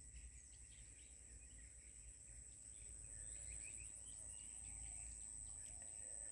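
Faint outdoor ambience: an insect trilling steadily at a high pitch, with faint scattered bird chirps.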